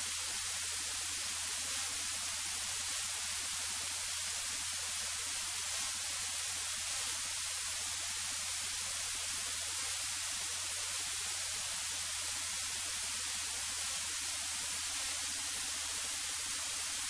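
Steady electronic hiss from a light aircraft's cockpit intercom audio feed, with a low steady hum underneath.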